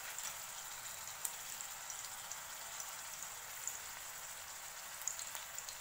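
Beef mince patties shallow-frying in oil on a flat iron tawa: a steady sizzle with scattered small crackles.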